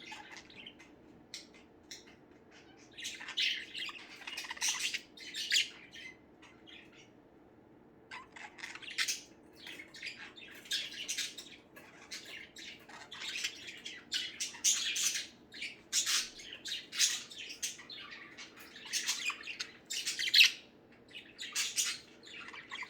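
Several pet budgerigars chattering in their cage, with rapid chirps and squawks. The chatter starts a few seconds in, pauses briefly, then keeps up to the end.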